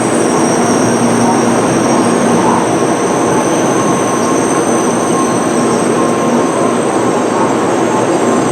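Tokaido Shinkansen train moving along the platform: a loud steady rushing noise with thin high-pitched whining tones over it.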